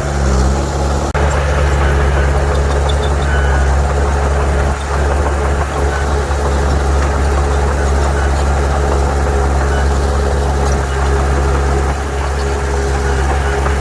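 Heavy diesel engine of earthmoving machinery running steadily at a low, even pitch, with a brief dip about a second in.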